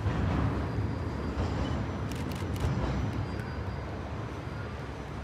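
A train rolling past: a steady low rumble with a few sharp clicks around the middle.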